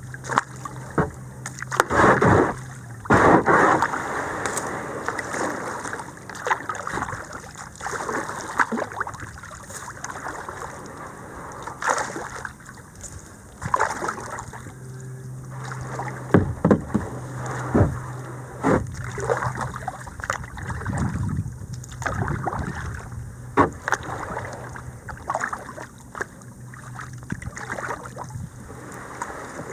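Kayak being paddled: irregular splashes of the paddle in the water, with scattered sharp knocks and bumps.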